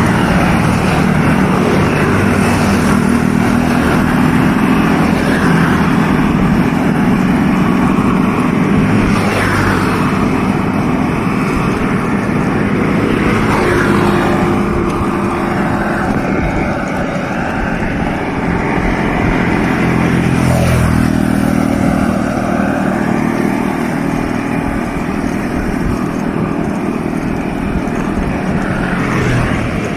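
Steady road traffic noise: motor vehicle engines running, with several vehicles passing, heard from along the road.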